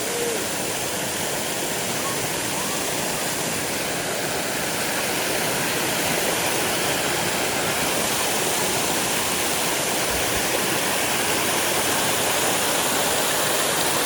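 Valley stream flowing over rocks: a steady, unbroken rush of water that swells slightly about halfway through.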